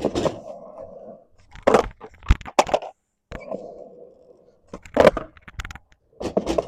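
Skateboard wheels rolling on concrete, broken by sharp wooden clacks of the tail popping and the board slapping down, in several clusters as attempts at a fakie big spin are made.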